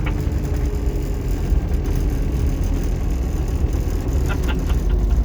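Fire truck's engine and tyres making a steady low rumble as the heavy truck slows down from high speed, with a few faint clicks about four and a half seconds in.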